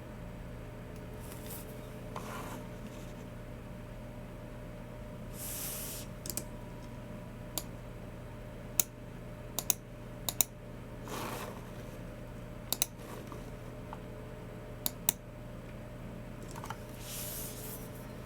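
Occasional sharp clicks from a Logicool MX Keys Mini keyboard and Logicool G304 mouse, several coming in quick pairs, with a few soft swishes between them over a steady low hum.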